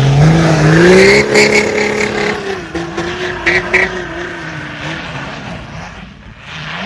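Off-road vehicle engine revving up under load, its pitch rising over the first two seconds, then holding steady and fading away, with a few sharp knocks along the way.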